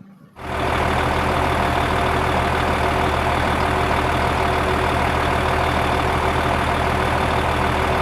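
Truck engine running steadily, starting about half a second in.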